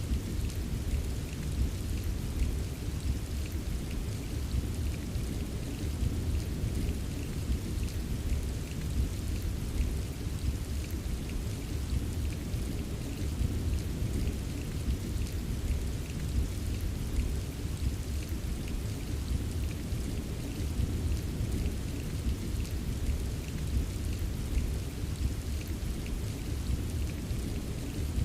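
Steady rain with a faint patter of drops, over a continuous low rumble of distant thunder. There is no sharp thunderclap.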